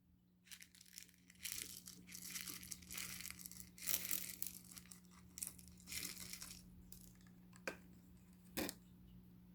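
Crinkling, crackling handling noises from a slime with toppings, in uneven bursts, followed by two sharp clicks near the end.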